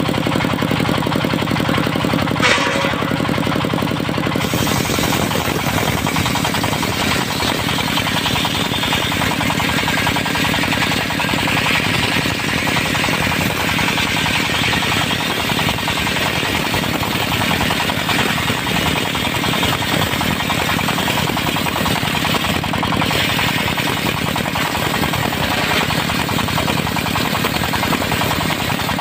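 Diesel-powered circular sawmill running steadily; from about four seconds in, the spinning blade cuts through dry teak, adding a loud high noise of sawing over the engine.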